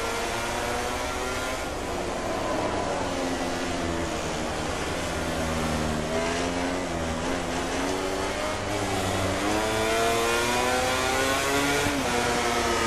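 MotoGP racing motorcycle engines at high revs, the pitch falling and climbing as the riders work through the gears, with a sharp drop about twelve seconds in like an upshift.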